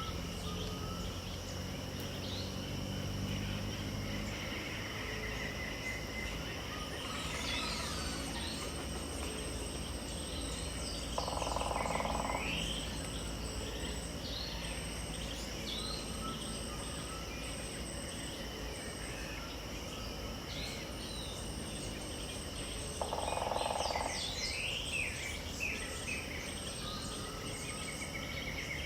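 Dawn chorus of Pantanal birds, many chirping and whistling calls, over a steady high-pitched insect drone. A louder, lower call of about a second sounds twice, roughly twelve seconds apart.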